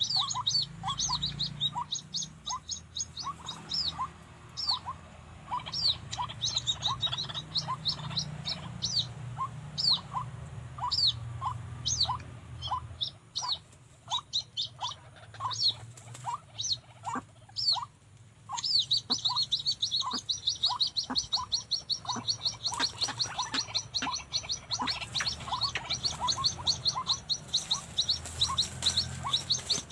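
White-breasted waterhens calling: a steady run of short, repeated 'kruak' notes, about two a second, with quick high chirping over them that turns into a dense, rapid series about two-thirds of the way through.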